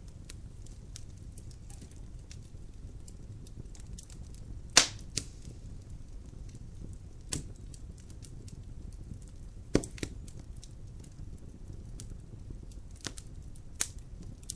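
Wood fire burning in a fireplace: a steady low rumble of the flames with constant small crackles and a few loud sharp pops, the loudest about five seconds in and another near ten seconds in.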